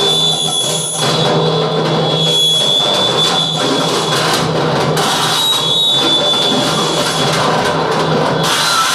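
Live experimental noise music: a dense, loud wall of noise over a steady low hum, with a thin high whistling tone that comes and goes and irregular clattering hits.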